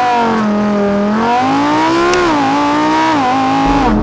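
Lamborghini Huracán EVO's 5.2-litre V10 accelerating hard. The engine note jumps up at the start and climbs, then drops back in two steps, once about two and a half seconds in and again near the three-second mark, in the way an engine note falls at upshifts.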